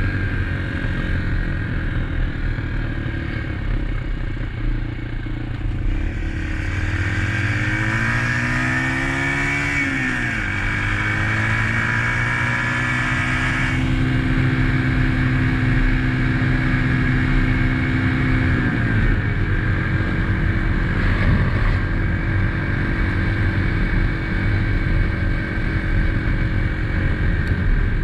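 2021 SSR XF250 dirt bike engine running under way, rising in pitch, falling back about ten seconds in, holding steady, then stepping lower again near nineteen seconds.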